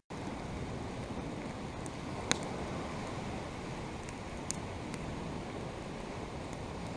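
Campfire crackling with a few sharp pops, the loudest about two seconds in and another around four and a half seconds, over a steady rushing wash of wind and lake-shore waves.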